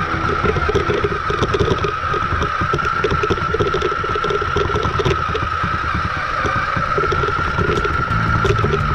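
Battery-powered RC 4x4 monster truck driving, its electric motor and gears giving a steady high whine over a lower hum that pulses on and off, with many small ticks.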